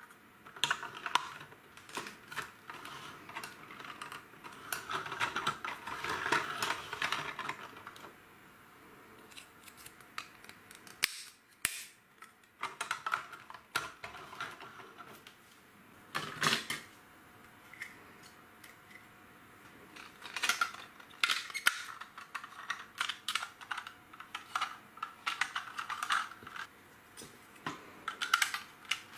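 LEGO bricks being handled and pressed together: irregular sharp plastic clicks and small rattles, denser in stretches of rummaging clatter.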